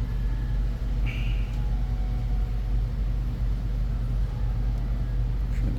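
Steady low background hum, with a faint brief scrape of handling about a second in.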